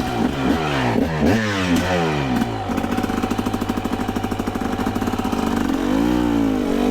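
Two-stroke dirt bike engine, just started, blipped up and down several times in quick succession, then running steadily with a fast even beat, and revved up and back down once near the end.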